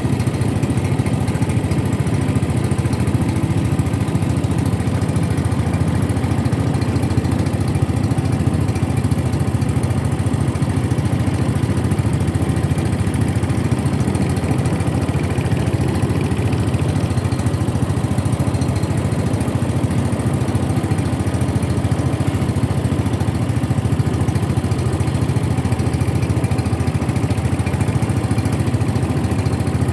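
A boat's motor running steadily at an even speed, a constant low engine drone with no change in pitch or loudness.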